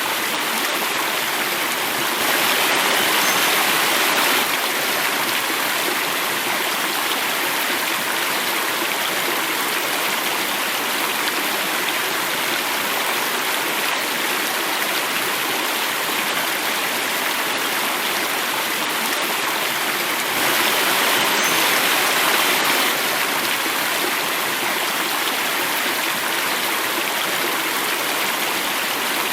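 Stream water running and falling over a cascade in a steady, even rush, which grows a little louder twice for about two seconds each.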